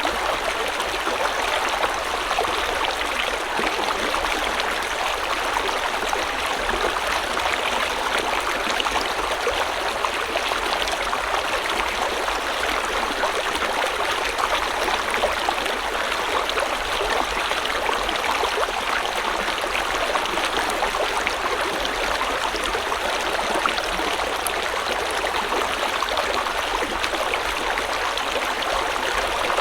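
River or stream water flowing steadily over stones, a continuous rushing with fine splashes and trickles.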